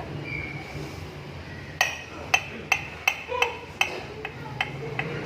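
A run of sharp metallic clinks, about nine of them at two to three a second and each ringing briefly, starting a little under two seconds in, as of a steel tool tapping or knocking on metal. Under them runs a low steady hum.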